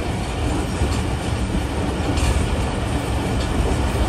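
Passenger train running along the track, heard from on board: a steady rumble of wheels on rail with a few clicks from the rail joints.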